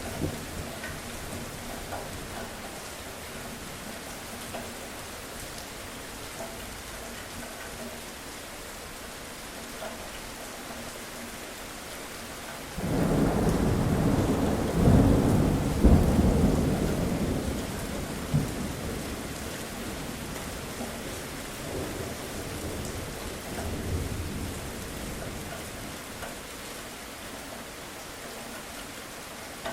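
Steady rain falling during a thunderstorm. About halfway through, a loud roll of thunder breaks in suddenly, peaks a few seconds later and dies away over about five seconds, with fainter rumbles after it.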